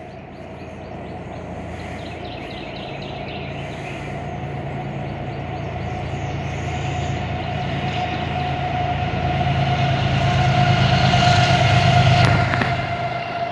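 A freight train's diesel locomotive approaching, its rumble growing steadily louder, with a steady whine running throughout.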